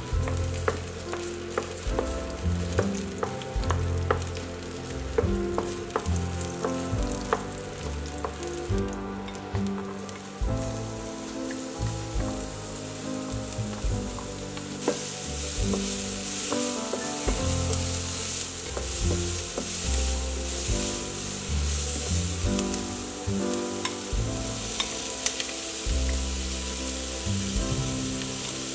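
Garlic sizzling in hot oil in a nonstick frying pan, with a wooden spatula tapping and scraping the pan. About fifteen seconds in, diced onion is tipped in and the sizzling grows louder. Background music plays throughout.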